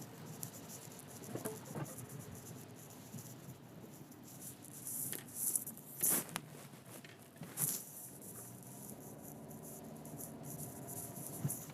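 Faint car cabin noise while driving at night on a rain-wet street: a low steady road and engine hum, with a few brief hissing swooshes between about five and eight seconds in. After that a faint steady engine drone.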